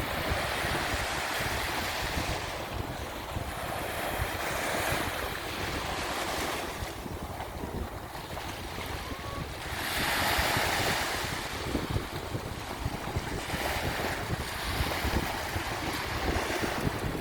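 Sea surf on a beach: waves break and wash in every few seconds, each swelling into a hiss and ebbing away, the loudest about ten seconds in. Wind buffets the microphone with a low rumble underneath.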